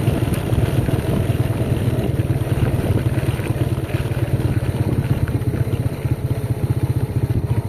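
A small vehicle engine running steadily at an even speed, with a rapid, regular pulsing beat.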